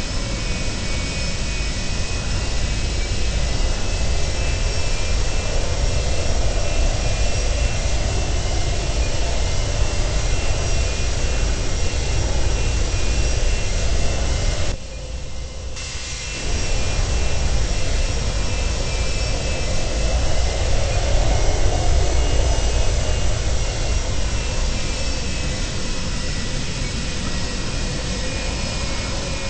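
Boeing 737-200's Pratt & Whitney JT8D turbofan engines running steadily: a deep rumble with a high whine over it. The sound drops away for about a second and a half some fifteen seconds in.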